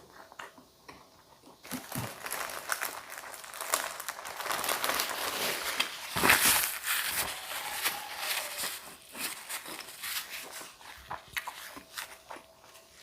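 Close-miked eating sounds: dense crunching and crinkling that starts about two seconds in, is loudest near the middle and thins out after about ten seconds, as of crisp cucumber salad being bitten and chewed.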